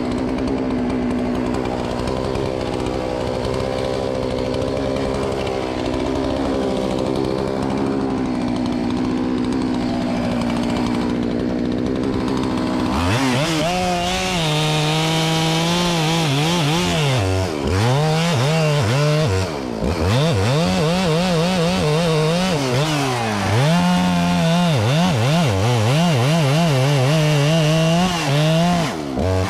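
Chainsaw running at a steady high speed, then from about halfway through revving up and down repeatedly, its pitch sagging and recovering as it works through wood.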